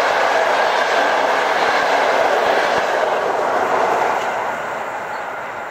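Passenger coaches of a train going by on electrified track, wheels running on the rails in a steady noise that starts to fade about four seconds in as the end of the train passes and moves away.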